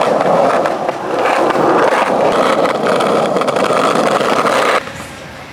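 Skateboard wheels rolling over pavement, a steady loud rolling noise with small ticks from cracks in the surface, cutting off suddenly near the end.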